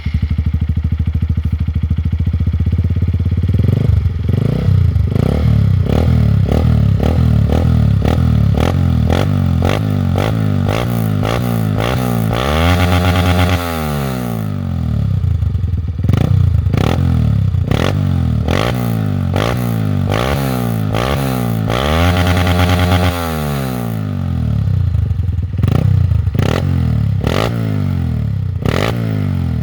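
Honda CRF150L single-cylinder four-stroke engine through an aftermarket exhaust, idling for a few seconds and then blipped over and over. The revs rise and fall quickly about twice a second, with two longer, higher revs held for about a second, one near the middle and one later.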